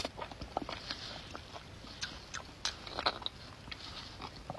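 Close-up mouth sounds of a person chewing beef bone marrow: irregular small wet clicks and smacks.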